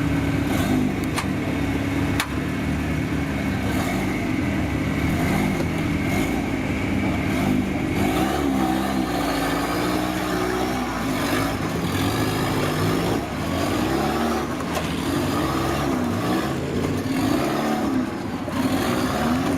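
Off-road 4x4 engine running and revving, its pitch wavering up and down, with a few sharp knocks.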